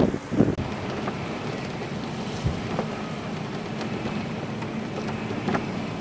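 Storm wind gusting hard against the microphone, then, after a sudden change about half a second in, a steady rush of wind and rough lake water.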